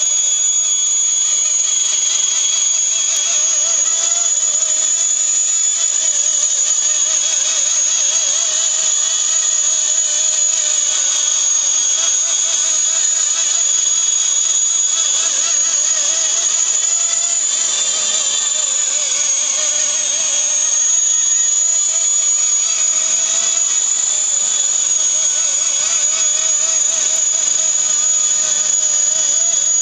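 Blade SR electric RC helicopter in flight: a steady high-pitched motor and gear whine with a lower rotor tone that wavers slightly in pitch as the throttle and load shift.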